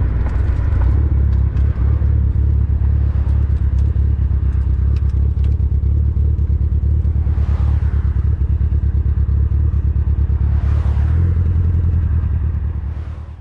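Mitsubishi Lancer Evolution VIII's turbocharged four-cylinder burbling at idle through an aftermarket Invidia exhaust, a steady, pulsing low rumble. Two brief whooshing swells come through about seven and eleven seconds in, and the sound fades out at the end.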